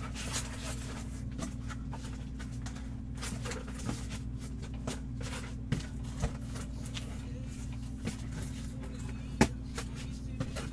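Scattered small clicks and knocks of items being handled, over a steady low electrical hum; the sharpest click comes near the end.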